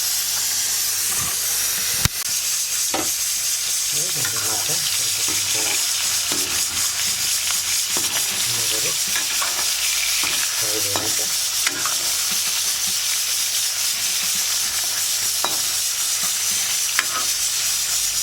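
Fish pieces coated in spice powder sizzling steadily as they fry in hot oil. Scattered small knocks run through it, with a sharp clack about two seconds in.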